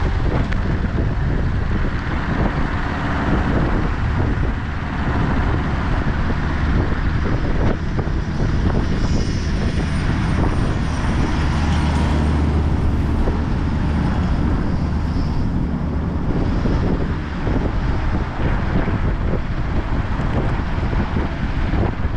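Exway Flex Hub electric skateboard riding at speed: steady wind buffeting on the microphone over the rumble of its wheels on the road, with a faint high whine now and then.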